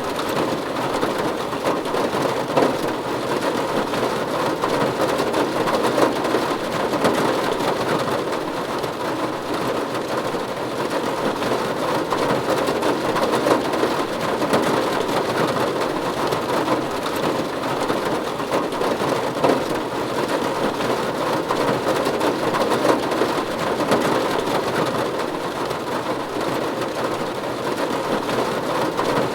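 Steady, even rain falling on a roof, a dense spread of drop impacts with no let-up.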